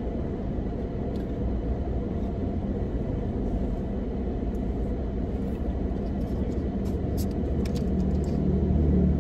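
Steady low rumble of a stationary car's idling engine heard from inside the cabin, swelling a little near the end, with a few light clicks about seven seconds in.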